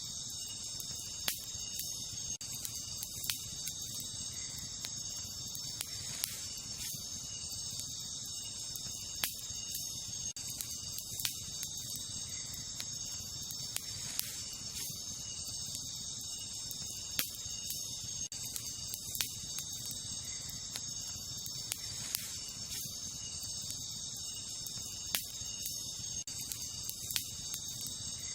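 Wood campfire crackling, with sharp pops every second or two, over a steady high-pitched chorus of night insects.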